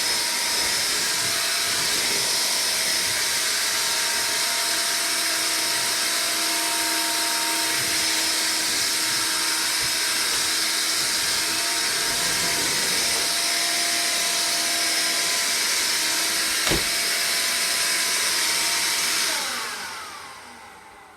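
Hoover Air Cordless Lift stick vacuum running steadily on straight suction with the brush roll off, picking up rice from the floor. There is a single sharp click about three-quarters of the way through. Near the end the motor is switched off and winds down, its whine falling away.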